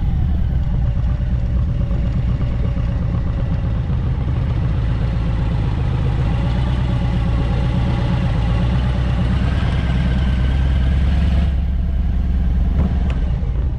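Motorcycle engine running steadily at road speed under a heavy low rumble of wind and road noise. The engine pitch drifts slowly up partway through.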